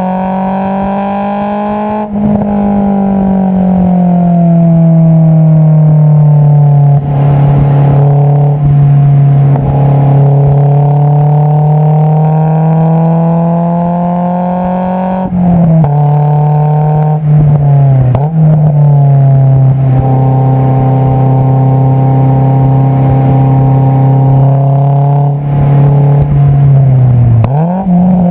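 Exhaust note of a Honda S2000 AP2's 2.2-litre inline-four through an Invidia Q300 cat-back, heard right at the tailpipe while driving. The pitch holds fairly steady under light throttle, dropping at a gear change about two seconds in. It dips and climbs again at several more shifts, the last near the end.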